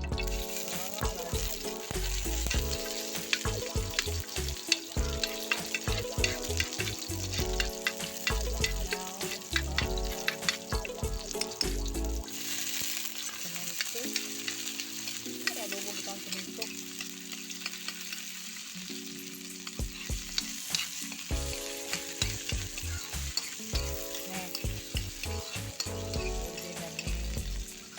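Food sizzling in hot oil in a pan while it is stirred, with many short clicks and scrapes of the utensil against the pan.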